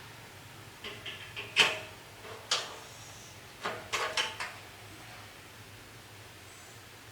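Metal parts being handled during repair work: a string of knocks and clanks in two clusters, some with a short ringing tone, the loudest about a second and a half in, over a steady low hum.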